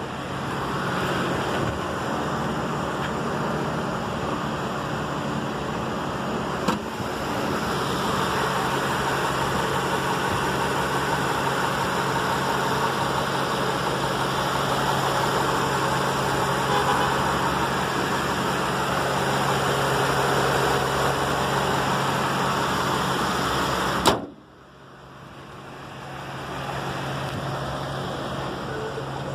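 2006 Honda Pilot's V6 engine idling steadily with the hood open. About 24 seconds in the hood slams shut with a single bang, and the engine sound becomes much quieter and muffled.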